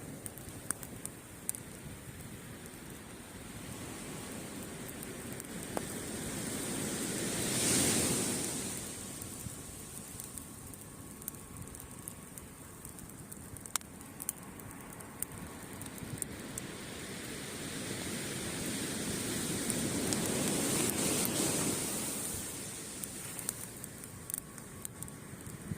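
Waves breaking and washing up a beach, swelling twice, about eight seconds in and again around twenty seconds in, over the sharp scattered crackle of a wood campfire.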